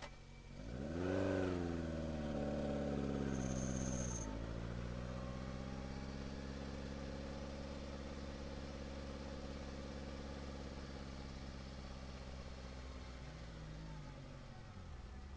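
Rally car's engine heard from inside the cabin, revving up and down in the first few seconds, then dropping abruptly about four seconds in and settling to a steady low-speed run whose pitch slowly falls as the car rolls along.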